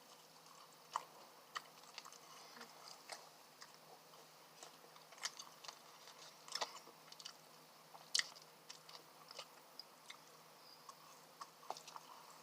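Close-miked chewing and biting of fast food, with small wet clicks and crunches from the mouth at irregular intervals.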